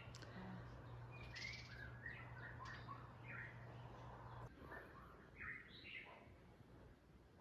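Faint birdsong: several birds chirping and calling. Under it a low steady hum stops about four and a half seconds in.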